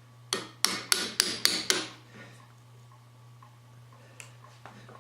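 About six quick hammer blows on an angled chisel, about four a second, driving it into a hammer's wooden handle beside the metal wedge in the head's eye to loosen the handle. A low steady hum runs underneath.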